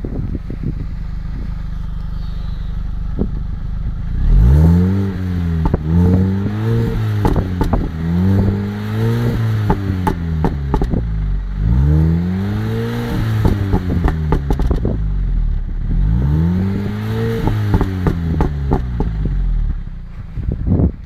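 Mini Cooper S four-cylinder engine through a Works sport exhaust, idling, then revved up and let fall back about eight times in a row, with sharp crackles from the exhaust among the revs.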